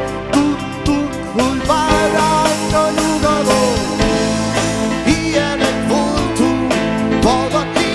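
A band playing a rock-style song: a steady drum beat under guitar and a melody line that slides up and down in pitch.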